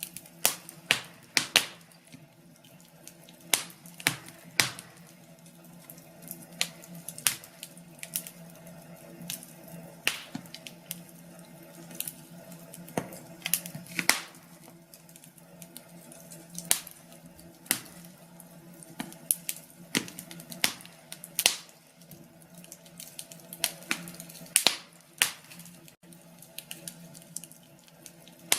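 Wood fire crackling, with irregular sharp pops and snaps several times a second over a faint low steady hum.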